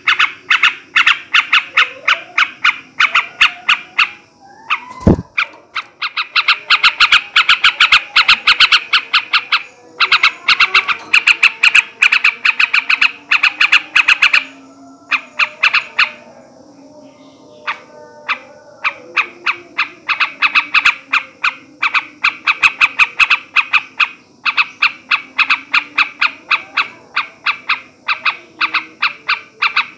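Male yellow-vented bulbul (trucukan) chattering: long, fast runs of sharp repeated notes, several a second, in bouts broken by short pauses about five seconds and about fifteen seconds in. A short falling swoop comes about five seconds in.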